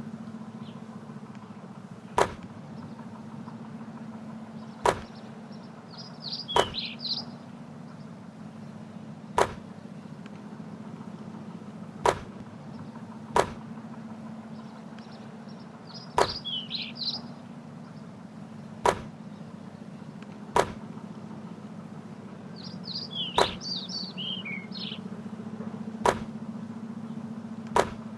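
Basketball being shot over and over at a hoop, with a sharp thud of the ball every two to three seconds. Birds chirp three times in the background over a steady low hum.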